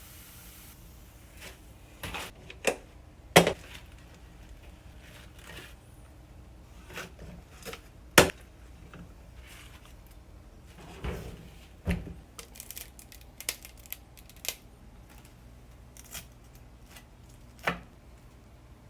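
Irregular knocks, taps and clicks of cooking utensils being handled during food preparation, with sharper knocks about three and eight seconds in.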